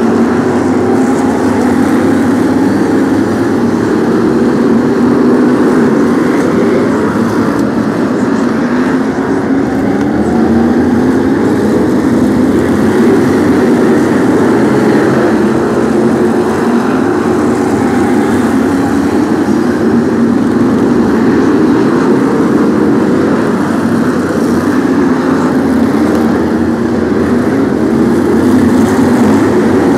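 A pack of BriSCA F1 stock cars racing, their V8 engines running loud together, several revving up and down at once and overlapping continuously.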